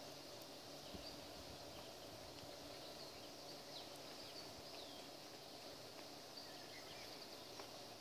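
Faint small birds calling in the pine tops: short, high chirps and quick little whistles scattered through, over a soft background hiss.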